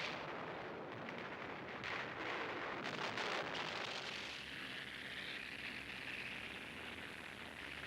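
Battle sound effects: a noisy rumble with several sharp bangs in the first half, settling into a steady noisy drone.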